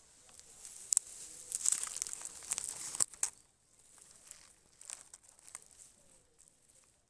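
Magnolia leaves rustling and crackling as a macaw moves through them, a dense crackle with sharp snaps in the first three seconds, then only a few light crackles.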